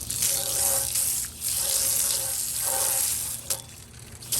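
Water running into a porcelain sink in three stretches with short breaks between them, as the scrubbed surface is rinsed.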